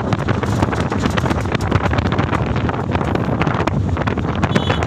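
Wind buffeting the microphone over the steady rumble of a moving truck.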